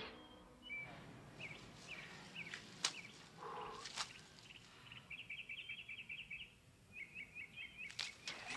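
Faint bird chirps and twittering, with a run of rapid chirps about halfway through and another near the end, and a few sharp clicks in between.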